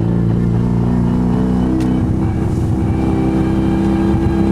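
Car engine running while driving, its pitch stepping up about halfway through and then holding steady.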